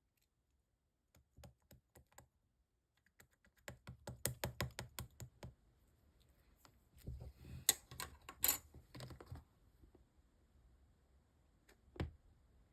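Marbling slime being squished and pressed by hand, making quick runs of small wet clicks and pops, about six a second. One louder click comes near the end.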